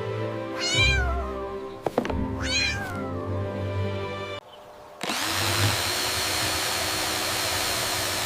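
Two cat meows over background music in the first few seconds. From about five seconds in, a steady, even electric motor whir starts and keeps running.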